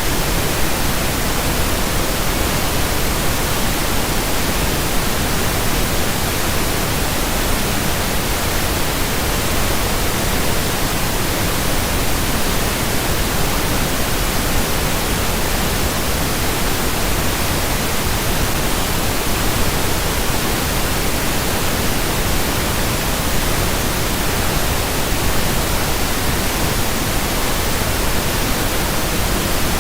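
Pink noise: a steady, even hiss spread across the whole range, unchanging throughout.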